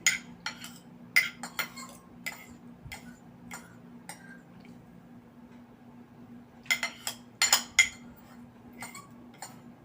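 Spoon or fork clinking against a plate while eating: scattered sharp clicks, with a quick run of several about seven seconds in.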